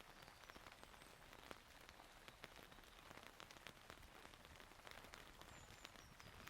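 Faint steady rain falling, with many separate drops ticking on nearby surfaces.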